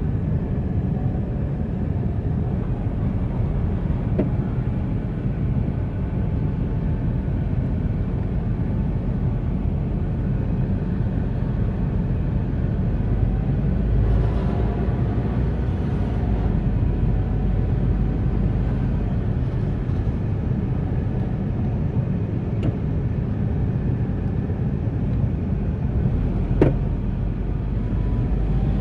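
Steady low rumble of a motor vehicle driving, with one sharp click near the end.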